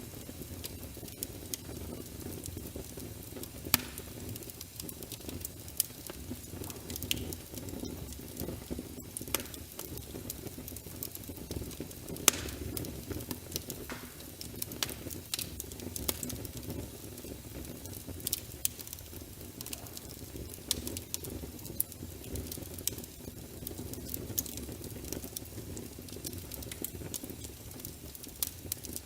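Wood fire in a fireplace crackling, with frequent sharp pops over a steady low rumble of burning.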